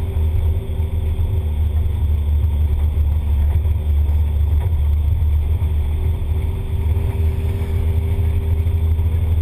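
Turbocharged Ford Laser TX3 drag car's engine running steadily at low revs as the car rolls slowly, heard on board as a deep, even rumble with no revving.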